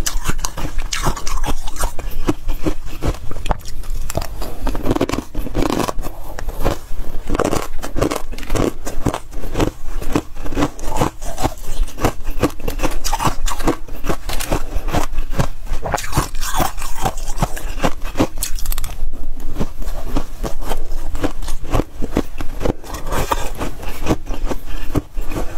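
Freezer frost being bitten, scraped and chewed, a dense continuous crunching made of many rapid crackles.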